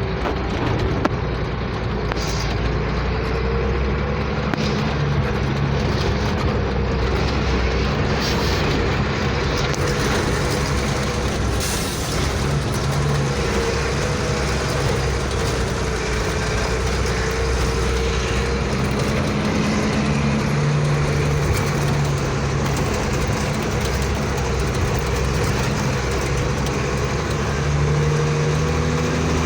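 Truck engine running steadily under way, with road noise; the engine note drifts slightly up and down in pitch.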